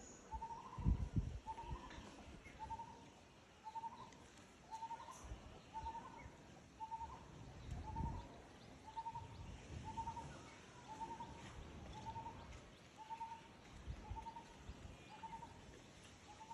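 A bird calling a short, slightly rising note over and over, about once a second, at an even pace. Low rumbling bumps come and go underneath, the loudest about a second in.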